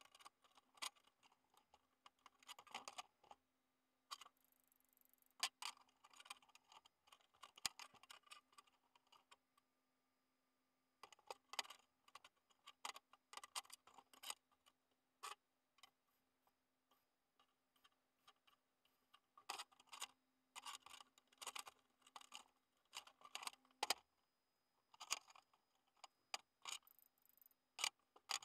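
Faint, irregular clicks and short scrapes in clusters, with pauses between them, over a faint steady low hum.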